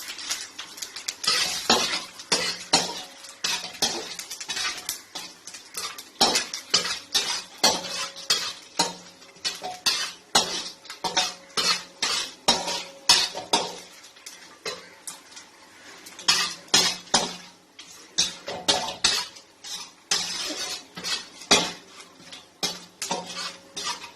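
A metal spoon or spatula scraping and clinking against a pan, stirring whole spices as they roast, in repeated irregular strokes about one or two a second. A faint low hum runs underneath.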